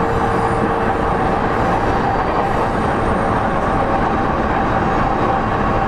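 Running sound of a JR East E231-0 series electric multiple unit, heard from inside a motor car: a steady rumble of wheels and running gear with a few steady tones from the traction equipment, one of which fades out just after the start.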